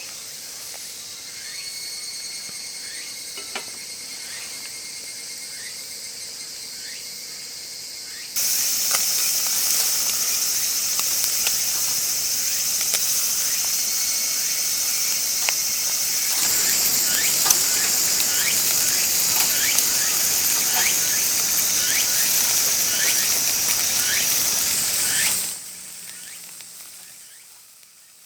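Spareribs sizzling on a hot grill plate over a fire pit: a steady high hiss with frequent small pops and spits. It is quieter at first, jumps suddenly louder about eight seconds in, and drops off abruptly near the end.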